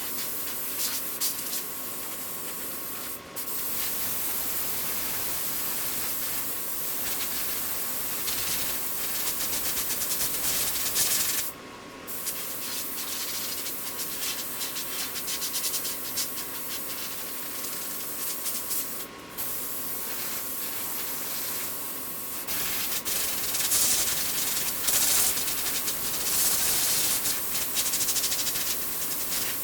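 Fine-grit sandpaper on a felt pad being rubbed by hand over the primer surfacer on a car hood, against the steady hiss of a compressed-air blow gun. The air hiss cuts out briefly three times: about three seconds in, near the middle, and about two-thirds through.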